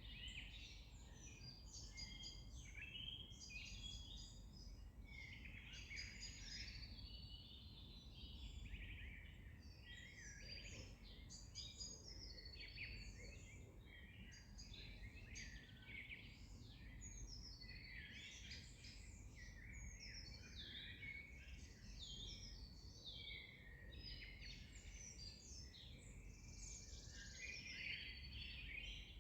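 A chorus of many small birds singing at once: dense, overlapping quick chirps, trills and short whistles, over a faint steady low rumble.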